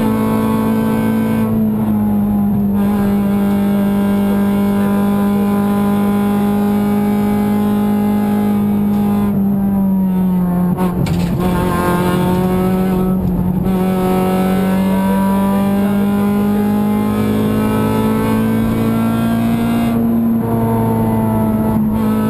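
Honda Civic VTi rally car's four-cylinder engine running hard at high revs, heard from inside the cabin with road and wind noise. The engine note dips in pitch about halfway through, then climbs slowly again as the car accelerates.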